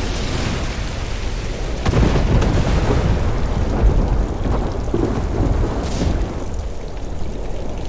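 Designed storm ambience: steady heavy rain under rolling thunder. A sharp crack about two seconds in sets off a long deep rumble, and a shorter crack comes near six seconds.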